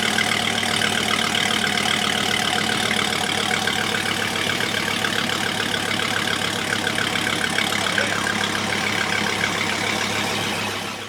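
Car engine idling steadily just after a cold start, fading out near the end.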